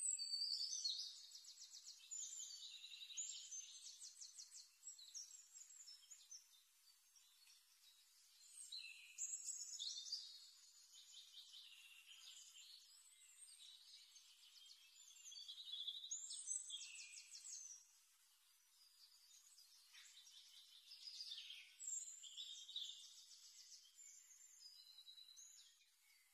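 Faint, high-pitched bird song: bursts of rapid trills and short chirps, each phrase a second or two long, returning every few seconds.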